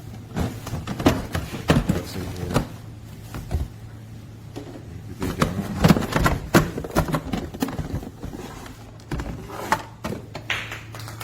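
A package being handled and unpacked: scattered knocks, clicks and rustles, busiest about half a second to three seconds in and again around five to seven seconds in, over a steady low hum.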